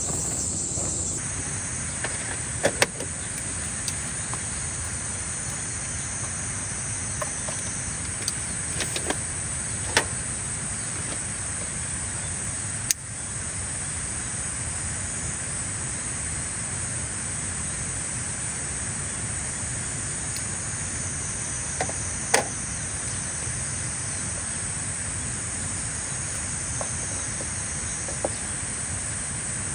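Summer insects chirring steadily in a high, even band, over a low steady rumble, with a few scattered sharp clicks and pops.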